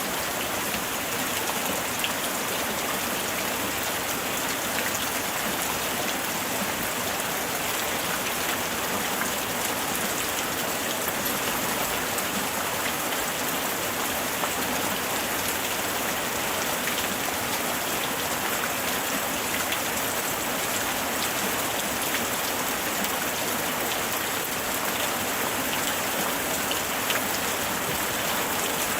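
Steady rain falling, a dense even hiss of drops with many small pattering ticks on a surface.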